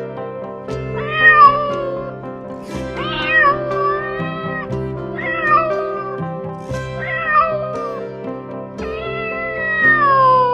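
Cat meowing five times, about every two seconds, the last meow longer and drawn out, over background music with sustained chords.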